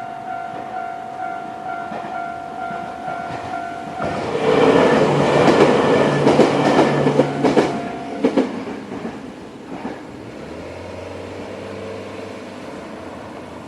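Level-crossing warning bell ringing in a steady repeating tone as a Joshin Electric Railway 500-series electric train passes over the crossing, loudest for about four seconds with a rapid clatter of wheels over the rail joints and crossing. The bell stops shortly after the train has passed, leaving a low steady hum.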